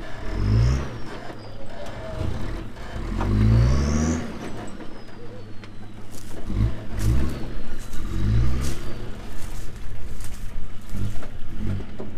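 Four-wheel drive's engine revving up and dropping back in several short bursts while it tows a loaded off-road camper trailer on a soft sandy track. A scatter of sharp high clicks comes in the second half.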